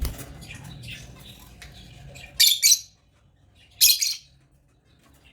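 African lovebirds calling: soft chirping chatter, then two loud, shrill squawks about two and a half seconds in and another just before four seconds.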